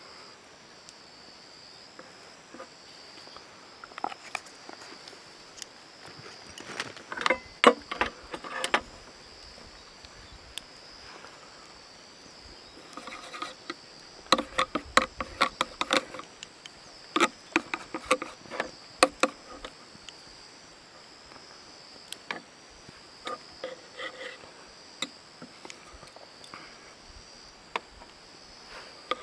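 Steady, high insect chirring, like crickets, with irregular clusters of sharp clicks and knocks that are louder than the chirring.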